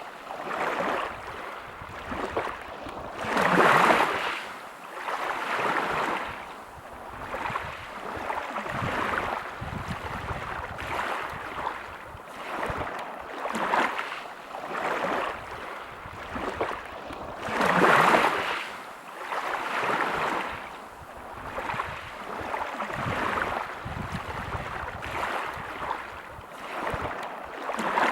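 Waves breaking on a pebble beach, each swell of surf rising and falling away every few seconds, with the strongest breakers about 4 seconds in and again near 18 seconds.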